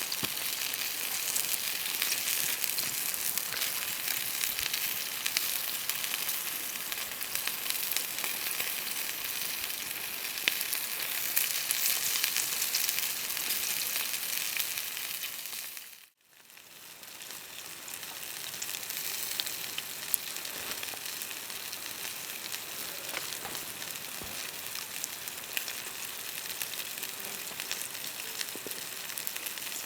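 Food sizzling and frying in a pan, a steady hiss with small pops and crackles. About halfway through it drops out for a moment and comes back a little quieter.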